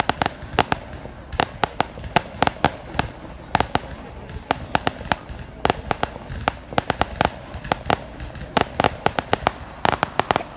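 Fireworks going off in a rapid, irregular string of sharp cracks and pops, several a second, with no pause.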